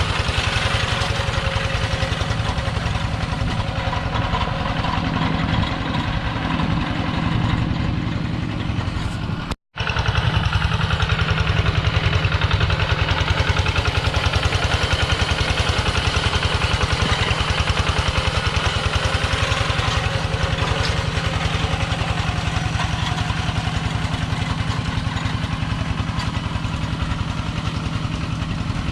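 Kubota two-wheel walk-behind tractor's diesel engine running steadily with a fast, even chugging beat. The sound drops out completely for an instant about ten seconds in, then resumes unchanged.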